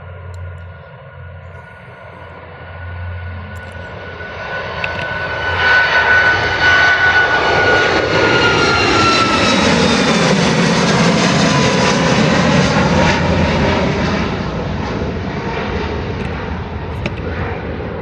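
Ryanair Boeing 737 MAX 8-200's CFM LEAP-1B turbofan engines at takeoff power as the jet passes. The sound builds from about four seconds in, is loudest in the middle, and then fades. A high whine drops in pitch as the aircraft goes by.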